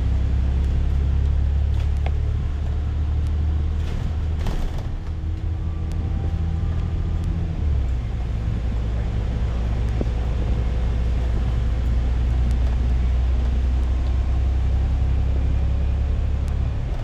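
Bus engine and drivetrain heard from inside the cabin: a steady low drone whose pitch shifts a few times as the bus changes speed, with a few faint knocks and rattles.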